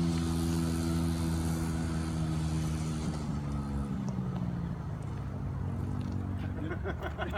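Small dirt bike engine running steadily, then its pitch drops about three to four seconds in and it gradually gets quieter.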